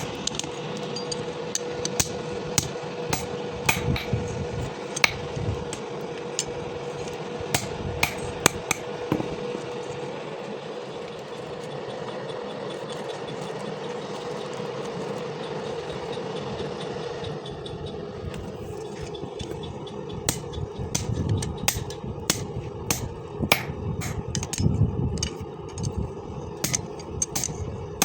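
Hammer striking steel in repeated, irregular blows. A steady hum runs underneath and stops about 17 seconds in, after which the blows come thicker and louder.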